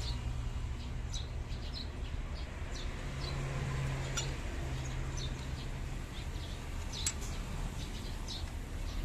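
Small birds chirping in short, scattered calls over a steady low hum, with a few sharp clicks.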